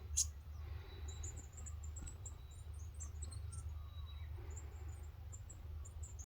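Small birds calling with many short, very high-pitched chirps scattered rapidly from about a second in, over a low steady rumble.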